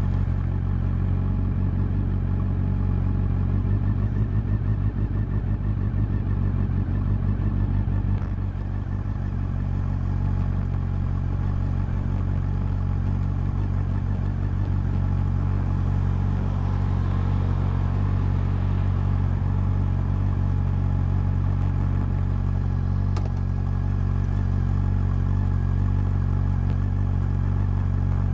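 Honda CB400 Super Four's inline-four engine and exhaust running at a steady low speed, likely idling, with an even note that holds one pitch throughout.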